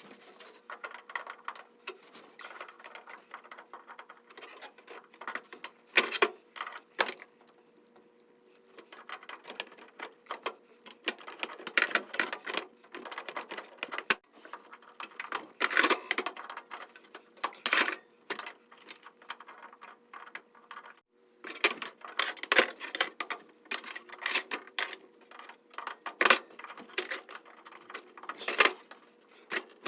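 Hand tools clicking, tapping and scraping on metal in irregular knocks while a cotter pin is worked out of a clevis on a car's transmission linkage.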